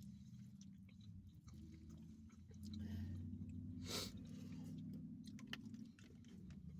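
Mouth-close chewing of takeout food, with small wet clicks and smacks over a low steady hum, and one louder short noise about four seconds in.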